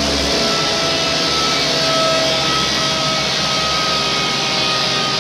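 Twin-engine Skoda Octavia, with a second engine swapped into the boot, running on a chassis dyno: a loud, steady rushing engine noise held at constant revs, with a faint whine.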